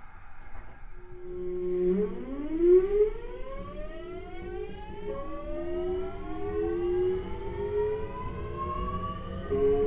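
Kintetsu 1420 series VVVF prototype's traction inverter and motors, famous for their loud inverter noise, as the train pulls away. Steady hum tones start rising in pitch about two seconds in, like a siren, and jump to new pitches about halfway through and again near the end.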